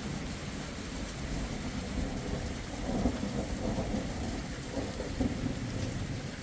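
Rain falling steadily with a low rumble underneath.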